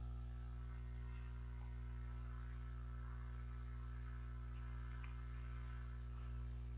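Steady low electrical hum, with a few faint, soft clicks of chewing and lip sounds in the second half as steamed rice cake (baekseolgi) is eaten.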